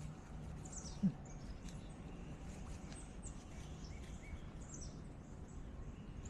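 Faint outdoor ambience with scattered short, high bird chirps, some falling in pitch, over a low steady background noise; a soft low thump about a second in.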